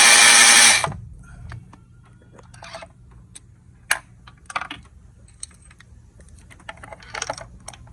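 A power tool runs loudly and stops sharply under a second in. Light scattered clicks and short rattles of hand tools and parts being handled follow.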